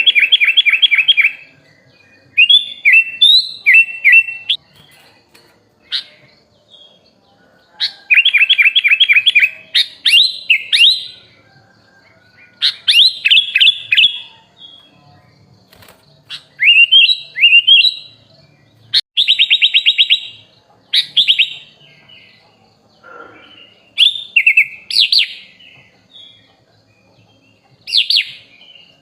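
Sooty-headed bulbul (kutilang) singing: loud short phrases of rapid repeated notes and rising whistles, one every two to three seconds with brief pauses between.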